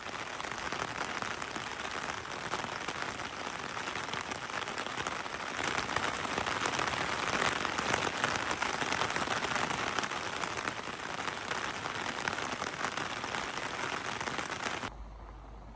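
Steady rain falling, a dense patter of countless drops. It cuts off abruptly about fifteen seconds in, leaving a quieter background with a low steady hum.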